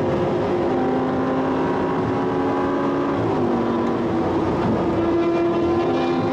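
Audi R8's engine running hard, heard from inside the cabin at high motorway speed, over a steady rush of road and wind noise. The engine note holds steady, dips slightly about three seconds in, then climbs back near the end.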